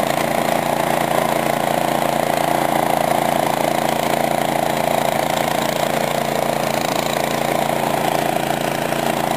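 Cub Cadet snowblower's engine running steadily at an even speed.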